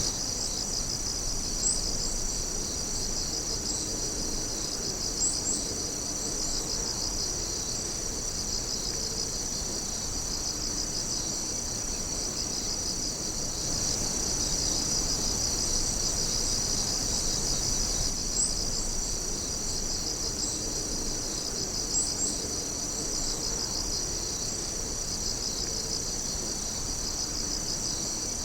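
A steady chorus of crickets and other night insects chirping and trilling in fast, continuous pulses, with a few brief higher chirps scattered through.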